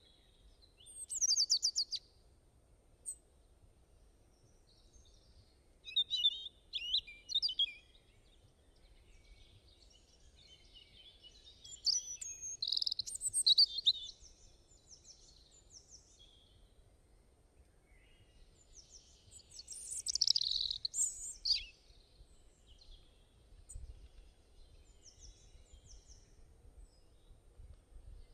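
Wild birds singing: short phrases of high chirps and quick trills come every few seconds, with fainter calls between them, over a faint low background rumble.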